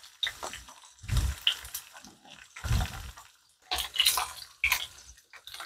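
Zucchini slices, jalapeños and garlic frying in olive oil in a skillet: irregular crackling and spattering, with a couple of low thumps.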